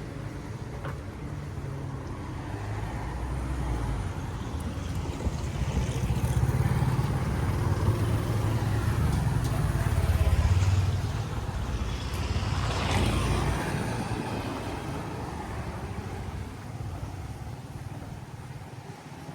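A motor vehicle passing close by: its low engine rumble swells over several seconds, peaks about halfway through, then fades away with a falling pitch.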